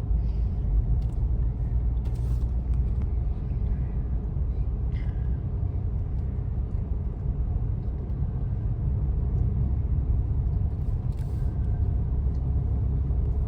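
Steady low rumble of a car driving along a road, heard from inside the cabin, with a few faint ticks.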